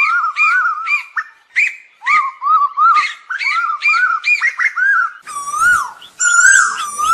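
Asian koel calling: a rapid series of short, arched whistled notes, about three a second. About five seconds in, these change to louder, longer notes that rise and fall.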